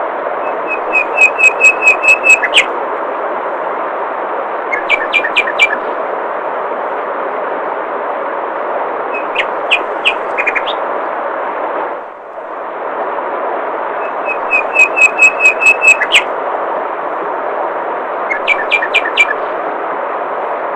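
Water flowing with a steady rush, with a small bird singing short phrases of rapid, repeated high whistled notes, five phrases in all. The water sound dips briefly about twelve seconds in.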